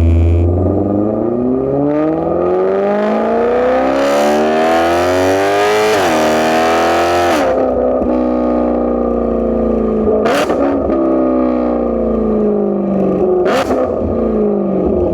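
BMW E92 M3's 4.0-litre V8 with a straight-piped, catless exhaust accelerating hard, revs rising through one gear, a quick shift and a further climb, then falling away as the car slows. Two short sharp bursts come in as the revs drop.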